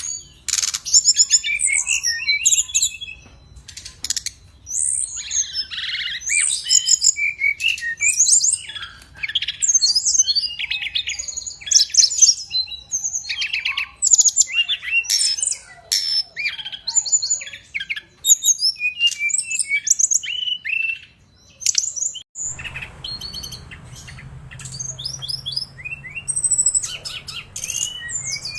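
A songbird, the SRDC (sikatan rimba dada coklat) of Indonesian bird-keeping, sings a fast, varied run of high chirps and short twittering phrases with hardly a pause. It is played as a lure recording to stir lazy birds into song. A low background hum comes in about three quarters of the way through.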